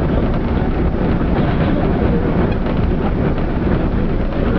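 Steady low rumble and hiss inside the cabin of an Airbus A380 taxiing after landing.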